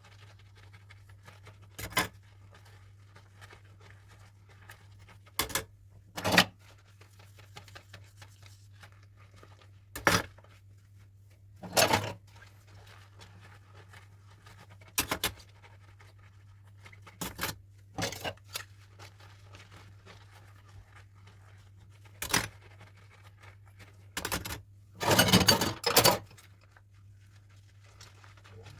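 Dishes and utensils being handled while washing up: scattered short clinks and knocks every second or few, with a denser cluster of clattering near the end, over a faint steady low hum.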